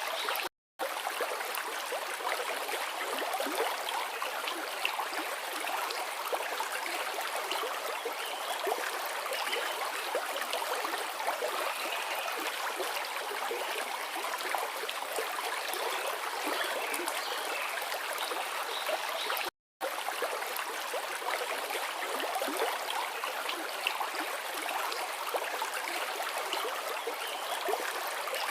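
Forest river flowing: a steady rushing and babbling of water with little deep rumble. It cuts out to silence for a split second twice, once just after the start and again about twenty seconds in.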